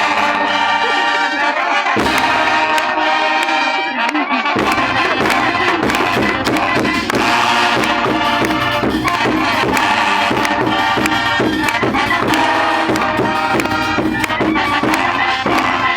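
Loud wind band music, many instruments holding and moving through notes together. A strong drum beat with full bass comes in about four and a half seconds in.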